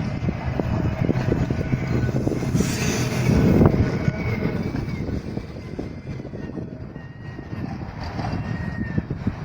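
Tram running along street track: a low rumble with a faint high whine from wheels or motors, growing louder about three to four seconds in and then easing off.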